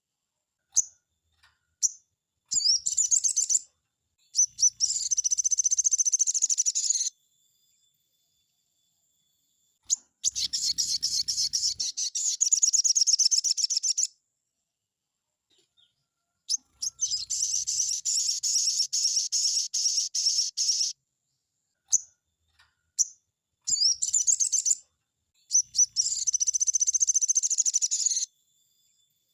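A sogon (crimson sunbird) singing its full fast, high-pitched trilled song in four bouts of a few seconds each, with single short chirps in the pauses between.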